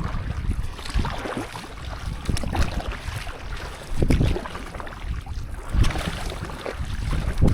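Stand-up paddleboard paddle strokes splashing in sea water at an even pace, about one every one and a half to two seconds, with wind buffeting the microphone.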